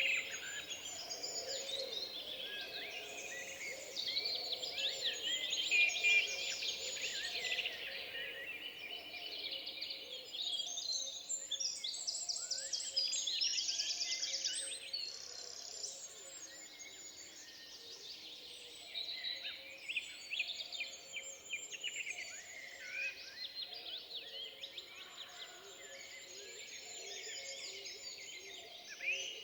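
Several songbirds singing and calling at once in woodland: overlapping chirps, whistles and trills, busiest in the first half, with a fast rattling trill about halfway through.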